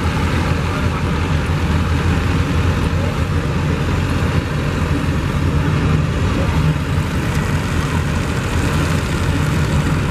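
Diesel truck engine running with a steady low rumble.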